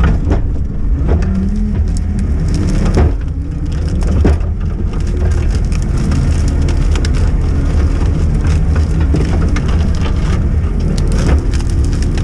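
Rented skid steer's engine running steadily under load, with a low rumble and repeated clanks and crunches as it works dirt and debris.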